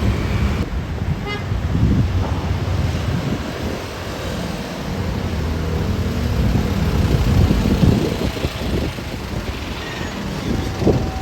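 Road traffic: vehicle engines running by, with a low rumble throughout. A horn sounds one steady note near the end.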